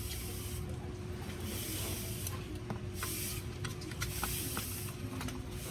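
Several short bursts of hiss, each under a second and a second or so apart, with light metallic clicks and taps between them.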